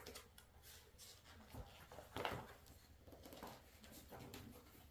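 Near silence, with a few faint, short rustles and taps from rolled posters and their packaging being handled.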